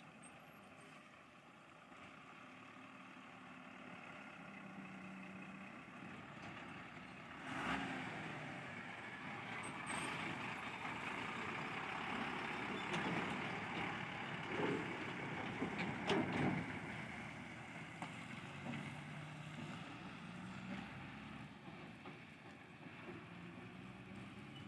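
Heavy diesel machinery running, with a sharp knock about seven and a half seconds in and a stretch of louder, uneven working noise through the middle.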